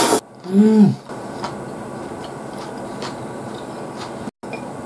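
A person eating a piece of tomato, with a short closed-mouth "mm" of appreciation about half a second in that rises and falls in pitch. Quiet chewing follows, faint wet clicks over a steady background hiss.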